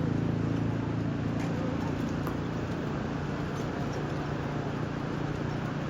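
Steady sea-beach ambience: a constant wash of surf and wind noise, with a low motor hum that fades over the first couple of seconds and comes back faintly near the end.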